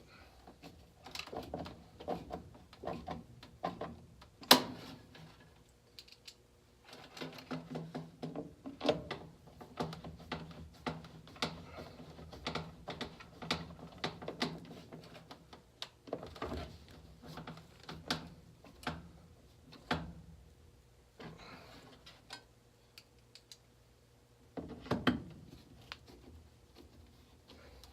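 Irregular clicking and rattling of metal parts and tools being handled during work on a gas furnace's inducer motor assembly, with one sharp loud click about four and a half seconds in.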